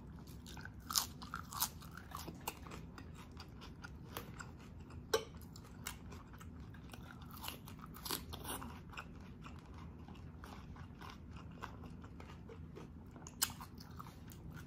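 A person chewing and biting food close to the microphone: crunching and clicking mouth sounds, with louder crunches about a second in, about five seconds in and near the end.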